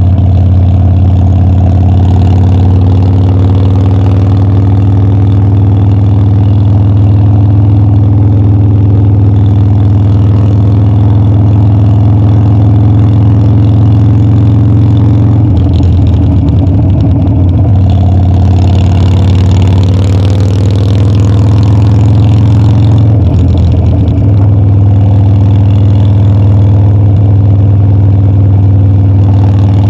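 Harley-Davidson Dyna's air-cooled V-twin engine running steadily under way, heard from the bike. The engine note is disrupted twice, briefly, about 16 and 23 seconds in, before settling again.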